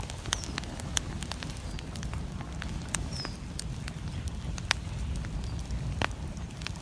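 Wood fire crackling and popping in a fireplace, sharp irregular pops over a steady low rumble of flame and storm wind.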